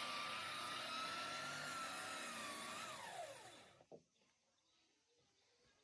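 Handheld power tool running steadily with a high whine, then switched off about three seconds in, its motor spinning down in a falling whine.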